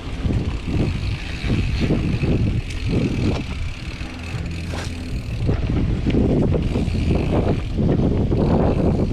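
Mountain bike riding over a dirt trail: wind on the microphone and rolling tyre noise, with frequent knocks and rattles from the bike over bumps, getting louder from about six seconds in.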